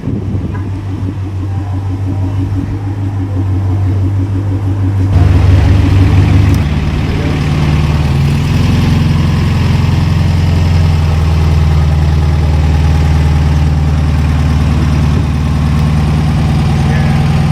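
Car engine running at idle, a steady low hum; about five seconds in a louder, deeper engine sound takes over and holds steady.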